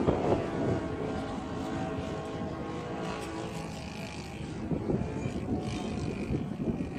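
Engine of a radio-control model airplane (Seagull Edge 540) droning steadily in flight as a pitched hum. Wind gusts on the microphone at the start and again near the end.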